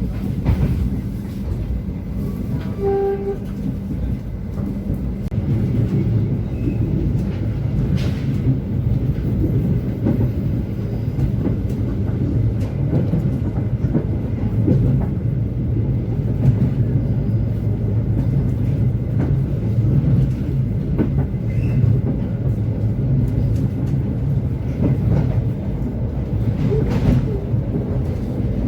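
Turangga passenger train running on the line: a steady low rumble of wheels on rails with occasional clicks, and a short tone about three seconds in.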